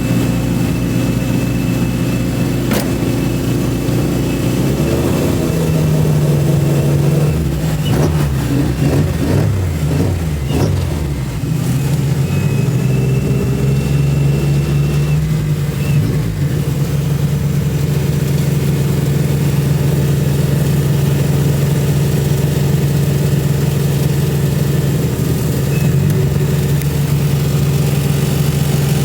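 Twin Saab engines of a 1000 bhp Astra van pick-up running, heard from inside the cabin. The revs rise and fall a few times between about six and sixteen seconds in, then hold a steady note.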